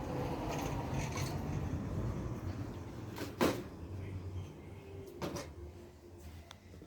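Cookware being handled: a low rumble of handling noise with two sharp knocks, the louder one about three and a half seconds in and a weaker one near five seconds.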